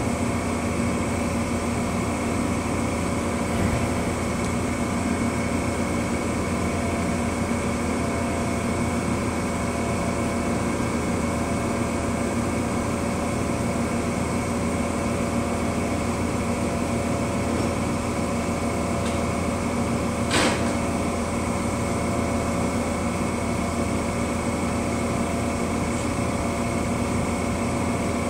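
Steady mechanical hum of a standing Amtrak passenger train idling at the platform, with several constant tones. A single sharp click sounds about twenty seconds in.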